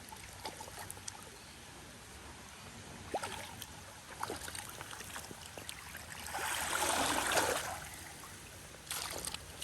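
Creek water running steadily, with scattered light ticks of rain, and a surge of splashing water lasting about a second, about six and a half seconds in.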